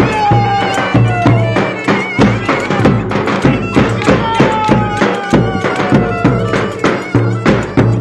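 Live Turkish folk music at a village wedding: a steady drum beat with deep low thumps under a long, held melody line that slowly falls in pitch.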